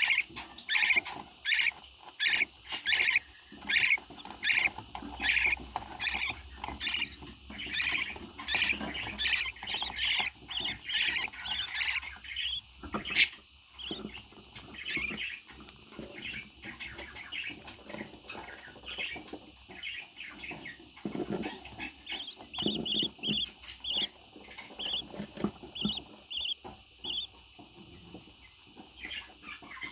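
Pet parrot calling: a run of short, high calls about two a second for the first twelve seconds, then softer, scattered calls and chatter. There is one sharp click about thirteen seconds in.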